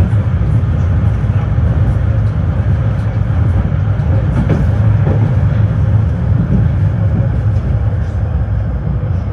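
Tram running on its rails, heard from inside the passenger car: a steady low rumble with a few faint ticks.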